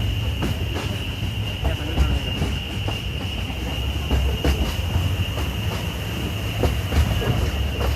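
Small narrow-gauge tourist train running along its track: a steady low rumble with irregular clanks and knocks, and a steady high whine throughout.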